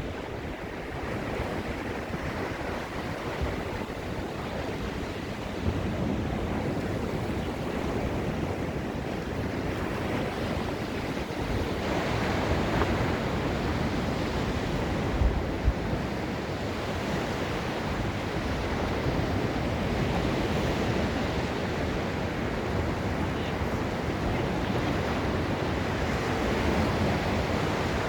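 Ocean surf washing steadily onto a Gulf beach, with wind buffeting the microphone now and then.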